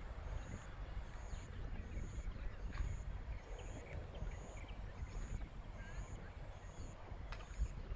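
Outdoor field ambience: a steady low rumble with a faint high pulsing tone about twice a second and a couple of sharp knocks late on.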